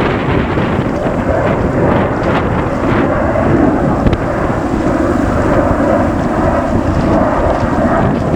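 Boeing 737-800's CFM56 jet engines at takeoff power, a loud, steady rumbling roar, with wind buffeting the microphone.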